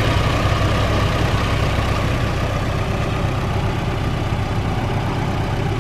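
Engine of a turbocharged Nissan Silvia S15 running steadily as the car is driven: a low drone under a hiss of road noise.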